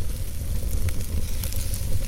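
Wood fire burning, with a low steady rumble and scattered small crackles and pops from the logs.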